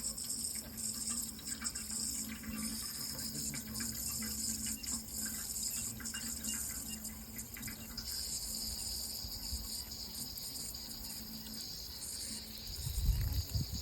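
Water running steadily, a continuous hiss with a faint low hum under it. A louder low rumble comes in near the end.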